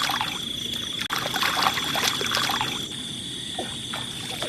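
Night-time rainforest insect chorus, a steady high-pitched drone, with water sloshing and trickling and scattered small splashes, mostly in the first half.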